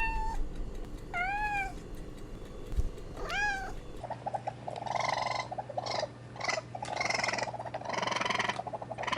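Domestic cat meowing: three short calls that rise and fall in pitch. After a cut, a cat makes several longer, rough, pulsing calls.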